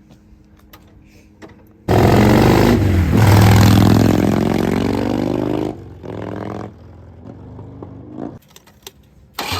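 A 2006 Harley-Davidson FXDB's Twin Cam 88 V-twin, with a swapped carburettor and Rinehart exhaust, starts suddenly about two seconds in and is revved, the revs falling away over the next few seconds. It cuts off abruptly near six seconds, runs quieter briefly, goes quiet, and runs again with a pulsing beat just before the end.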